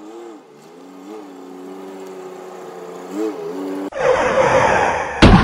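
A vehicle engine running steadily, rising briefly in pitch three times with small revs. About four seconds in it gives way to a loud rushing noise, then one sharp, very loud slam near the end.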